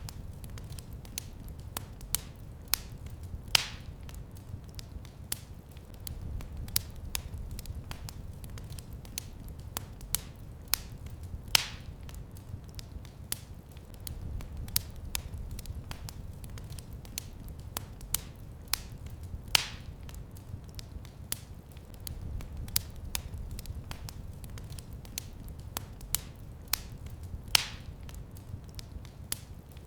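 Wood fire in a fireplace crackling steadily over a low rumble of flames, with many small snaps and a louder pop about every eight seconds.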